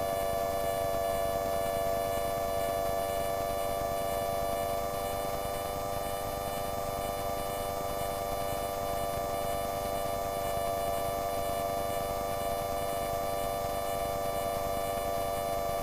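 Light aircraft engine running steadily, heard as an even drone of several held tones through the cockpit intercom, with no change in pitch.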